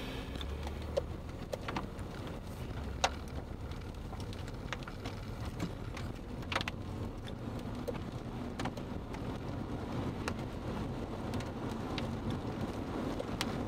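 Scattered raindrops striking a car's windshield and roof in sharp, irregular taps, a few a second, over a low steady rumble.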